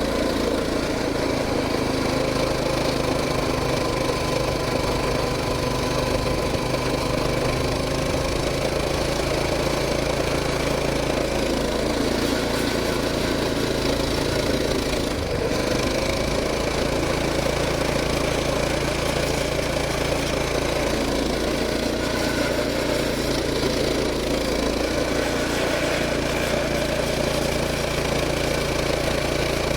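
Coleman BT200X mini bike's small single-cylinder four-stroke engine running at a steady speed, with little change in pitch.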